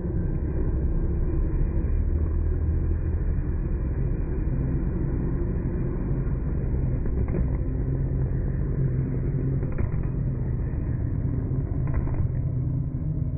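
A car engine running steadily with a low rumble, its pitch holding nearly level with no revving.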